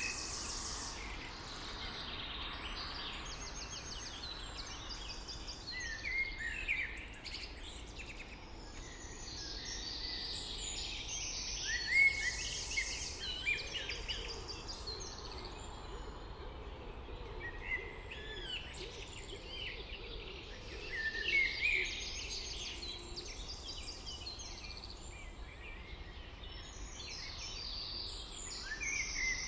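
Several songbirds singing at once, with overlapping chirps, fast trills and warbled phrases, over a steady low background rumble.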